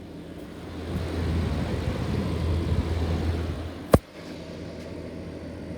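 1998 General air conditioner running from outside: a steady hum of compressor and fan with air rushing from the hot-air outlet, louder for a couple of seconds. A sharp click about four seconds in, after which the hum is quieter. The unit is running well.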